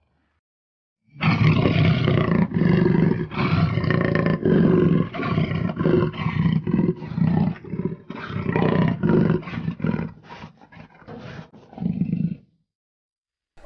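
Deep, monster-like roaring and growling in a rapid string of pulses, a few a second, getting shorter and choppier near the end. It starts about a second in after silence and cuts off about a second before the end.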